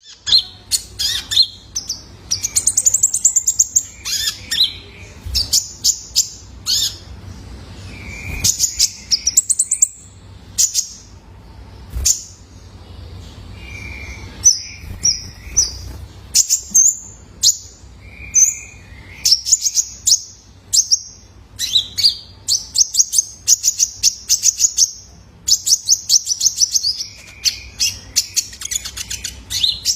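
Young male konin (kolibri ninja sunbird) singing: rapid bursts of high, thin chirps and fast trills, broken by a few short, lower notes.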